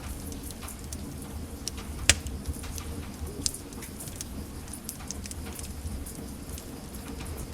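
Wood fire in a fireplace crackling: scattered sharp pops and snaps over a low steady rumble of the flames, with one louder pop about two seconds in.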